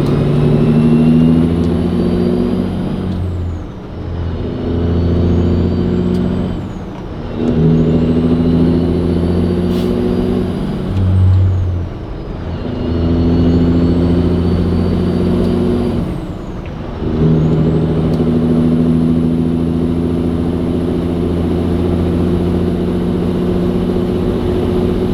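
Cat 3406E diesel engine pulling a truck up through the gears, running through an Aero Turbine 5050 XL straight-through performance muffler. The engine note builds and dips four times as it upshifts, then holds steady. A high turbo whistle rises with the revs and falls away at each shift.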